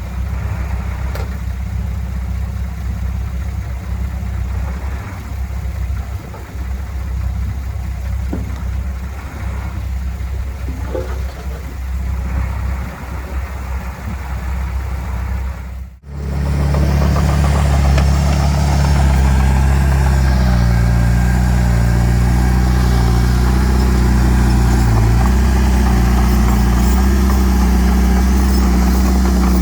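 Heavy earthmoving machine's diesel engine running steadily. Just past halfway the sound drops out for a moment and returns louder, with more rattle.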